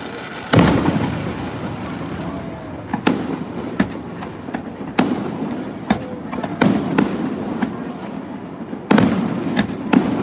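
Aerial fireworks bursting: a rapid, irregular series of sharp booms, about a dozen in ten seconds, each echoing, with a cluster near the end.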